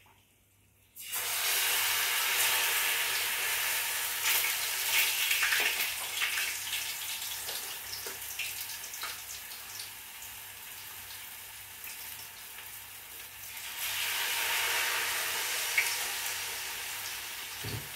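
Fish going into a small pot of hot oil: a loud frying sizzle bursts in suddenly about a second in. It eases off in the middle and swells again near the end.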